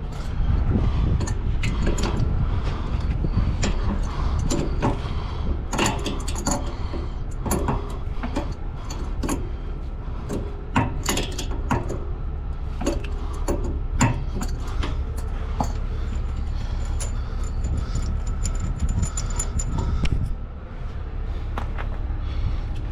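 Metal tools and fittings clinking and clicking as they are handled, many small sharp knocks, over a steady low engine rumble.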